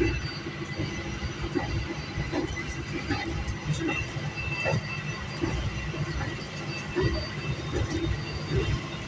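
Passenger train running at speed, heard from inside the carriage: a steady low rumble with irregular short knocks from the wheels and track.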